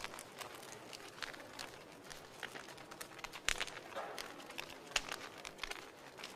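Wood fire burning in a fireplace, crackling: irregular pops and snaps over a soft hiss, with a few sharper pops standing out.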